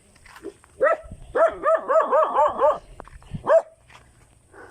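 A dog barking: a single bark, then a quick run of about six barks, then one more bark.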